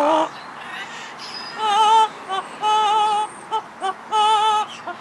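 A pet parrot singing a tune of high, wavering 'la'-like notes: three longer notes with a wobble in pitch, separated by short clipped notes.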